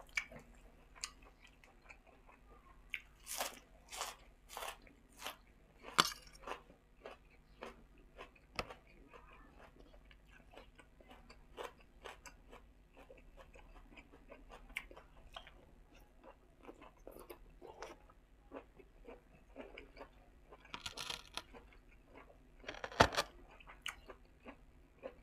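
A person chewing and crunching, eating fresh dill and a spicy pork sai tan salad with a fork: a run of crisp crunches a few seconds in, softer chewing through the middle, and the loudest crunches near the end.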